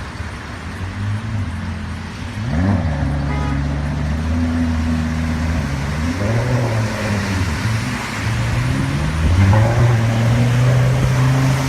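Car engine running, its pitch climbing as it revs up about two and a half seconds in, dropping back around six seconds, then rising again and getting louder near the end.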